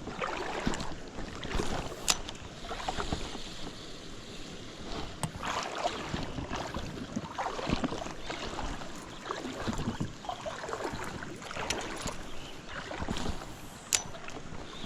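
Creek water running and splashing, uneven and surging, with a couple of sharp clicks, one about two seconds in and one near the end.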